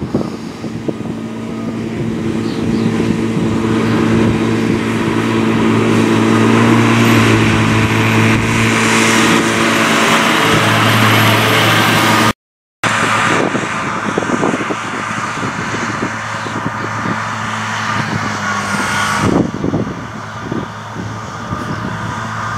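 Claas Arion 650 tractor's six-cylinder diesel engine running steadily under load while working a Claas Disco disc mower, growing louder over the first several seconds. The sound cuts out for a moment about halfway, then the tractor and mower carry on a little quieter.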